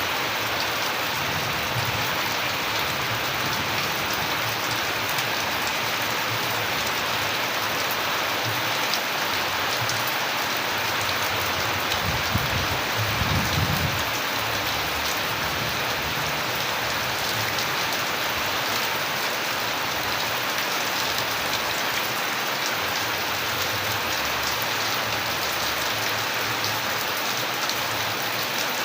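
Steady rain falling, with a dense patter of drops, and a brief low rumble about halfway through.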